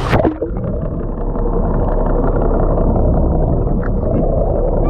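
Boat engine running steadily, heard muffled as a low rumble with a hum, opened by a brief falling squeal.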